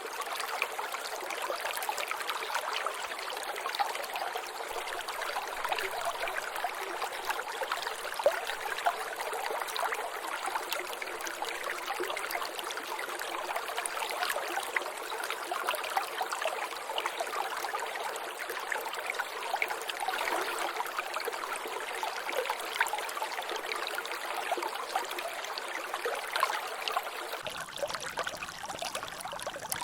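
Water trickling and dripping in a small drainage: a steady, dense patter of little splashes and drops with no pauses. A faint low rumble joins near the end.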